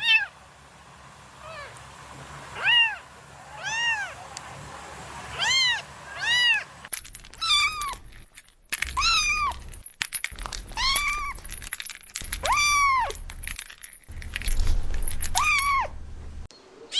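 Kitten meowing again and again: high-pitched mews that rise and fall, roughly one a second. The background noise changes abruptly about seven seconds in.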